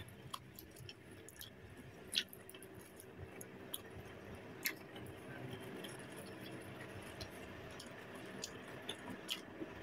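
Faint chewing of crispy fried chicken: scattered small crunches and mouth clicks, the clearest about two seconds in.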